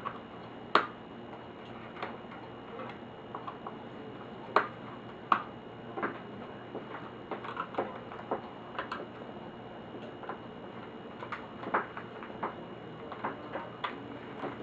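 Irregular light clicks and taps of laptop parts and tools being handled during disassembly, a few of them sharper and louder, over a steady low hiss.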